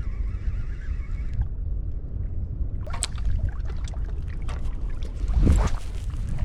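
Wind rumbling on the microphone over surf at the water's edge, with two louder rushes, one about three seconds in and one at about five and a half seconds.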